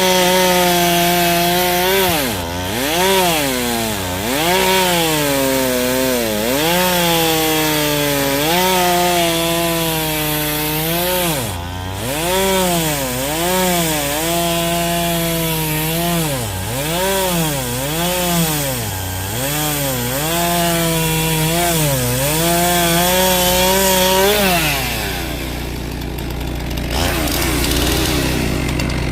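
Chainsaw cutting through a big log, its engine pitch dipping under load and climbing back again and again as the chain bites into the wood. Near the end the cutting stops and the saw drops to a low steady run.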